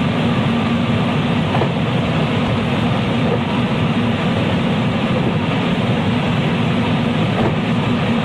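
JR West 223 series electric train running at speed, heard from inside its motor car KuMoHa 223-3016: a steady rumble of wheels on rail with a constant low hum.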